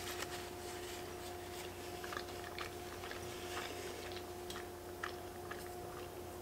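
A person chewing a mouthful of creamy fettuccine alfredo with her mouth closed, with faint wet mouth clicks coming irregularly. A steady faint two-tone hum sits underneath.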